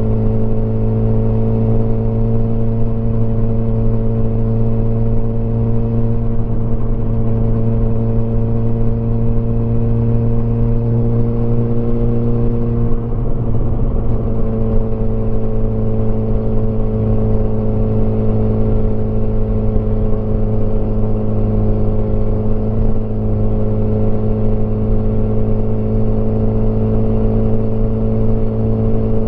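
Motorcycle engine running steadily while riding, heard from the rider's position. About halfway through the engine note breaks briefly and then settles at a slightly lower pitch.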